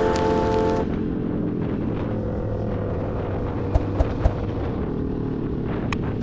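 Background music cuts off about a second in, giving way to the steady drone of a motorcycle running with rumbling wind noise, and three quick sharp knocks in the middle.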